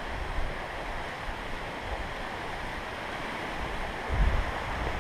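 Steady rushing of creek water flowing over rocks, with a brief low rumble about four seconds in.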